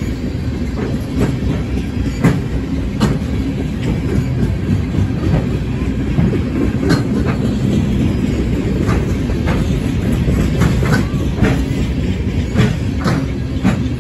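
Freight train boxcars rolling past: a steady low rumble of steel wheels on the rails, with irregular sharp clicks and clanks.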